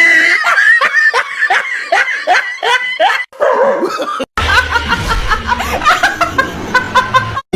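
A person laughing hard in a quick run of short, repeated bursts. About two-thirds through the sound cuts off abruptly, and more short laughing sounds follow over a low steady hum.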